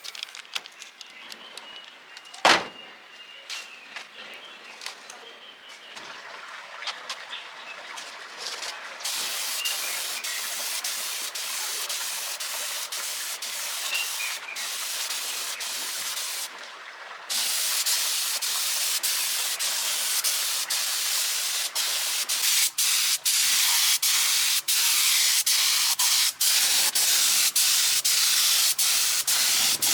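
Compressed-air spraying hiss that starts about nine seconds in, stops briefly, then runs louder from about seventeen seconds, cut by many short breaks. Before it there are scattered light clicks and one sharp knock a couple of seconds in.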